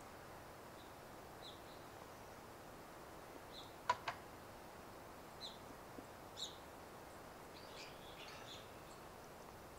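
Sparse short, high bird chirps over a faint steady hiss of quiet forest ambience, with two sharp clicks in quick succession about four seconds in.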